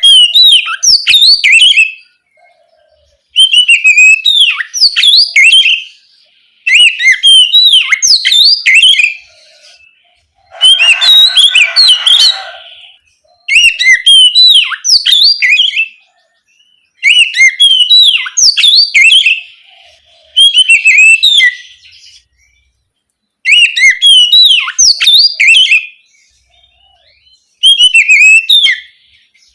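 Oriental magpie-robin (kacer) singing its loud, open 'ngeplong' song in repeated phrases of rapid whistled and chirping notes, each about two seconds long with short pauses between. About eleven seconds in, one phrase is harsher and raspier.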